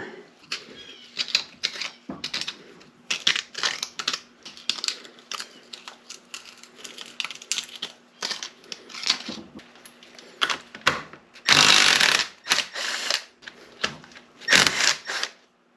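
Metal tools and transfer-case parts clicking, knocking and clattering as a gear case is dismantled by hand, with a longer, louder clatter about eleven and a half seconds in. A faint steady hum runs underneath.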